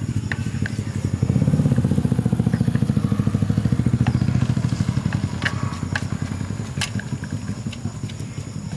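Small motorcycle engine running with a rapid, even pulse. It gets louder about a second in, then slowly eases off.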